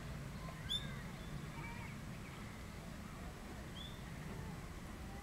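Wild birds calling: a short, high chirp about a second in, another near four seconds, and a few softer, lower calls between them, over a steady low background rumble.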